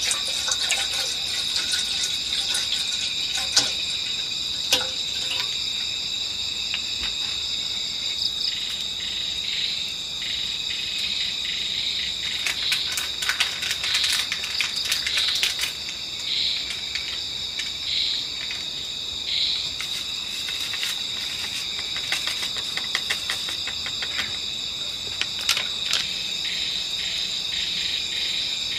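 Night insect chorus: crickets trilling steadily at several high pitches, with scattered clicks and taps. In the middle, short separate calls repeat about every second and a half.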